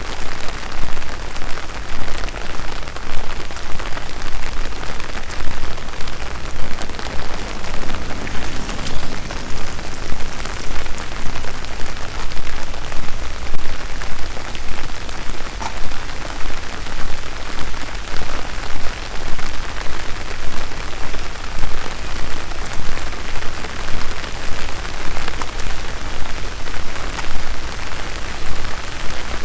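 Steady rain falling on trees and paths, with scattered close drops ticking through it.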